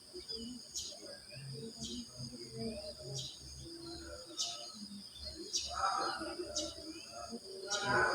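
Crickets trilling steadily at a high pitch, with a short high chirp repeating about once a second and birds calling lower down, loudest about six and eight seconds in.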